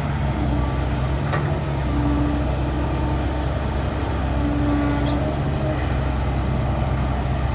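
Diesel engine running steadily at a low idle-like drone, with a faint higher hum that comes and goes.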